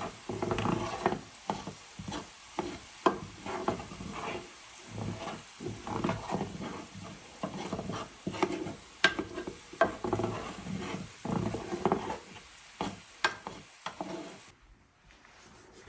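A utensil stirring garlic, onions and parsley in a frying pan of warm olive oil: irregular scrapes and knocks against the pan over a light sizzle, which drop away suddenly near the end.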